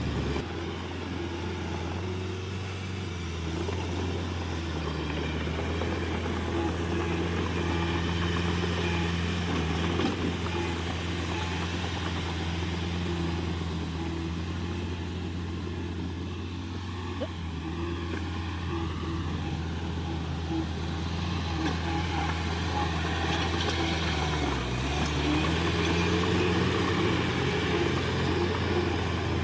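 Heavy diesel engine of construction machinery running steadily, with a brief drop and return in revs about twenty-four seconds in.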